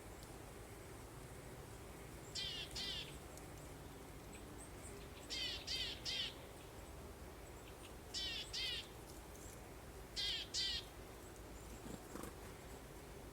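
A bird calling in short notes grouped in twos and threes, four groups in all, over a steady low background hiss of breeze.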